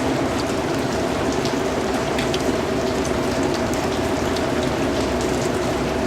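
Steady rain, a dense even hiss with many individual drops ticking sharply on a surface.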